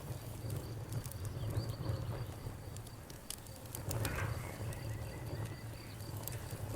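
Wood fire crackling, with scattered sharp pops and snaps over a low steady rumble and a brief hiss about four seconds in. A faint, steady high-pitched trill runs underneath.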